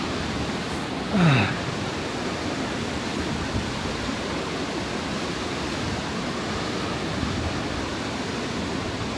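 Steady rushing roar of a large waterfall. About a second in, a brief, louder sound falling in pitch cuts over it.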